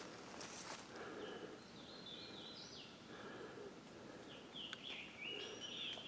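A songbird singing faint phrases of quick whistled notes, twice, with light steps and rustle on the trail.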